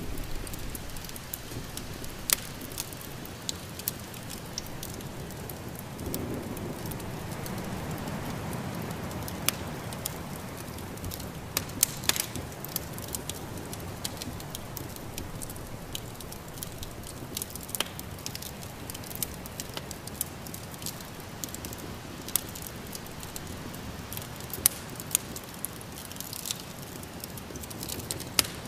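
Wood fire crackling in a fireplace: irregular sharp pops and snaps over a steady soft hiss, with a low rushing swell that rises briefly about six to ten seconds in.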